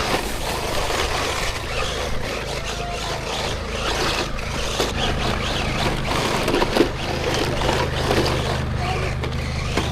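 Radio-controlled rally car running on a forest trail, its motor revving up and down over and over, with crunching and clicks from the wheels on the ground.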